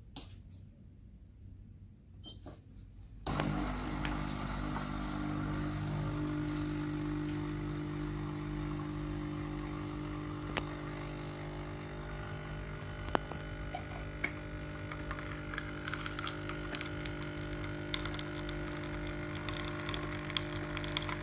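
Capsule coffee machine brewing: after a couple of clicks, its pump starts suddenly about three seconds in and runs with a steady hum, with small clicks and trickles over it.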